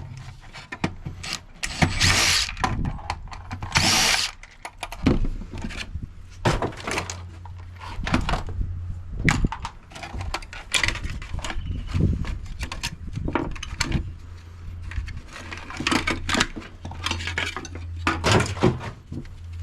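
Power drill running in two short bursts a couple of seconds apart, undoing the screws that hold a fridge's top plate on, followed by a string of clicks, knocks and rattles of plastic and metal parts being pulled apart, over a steady low hum.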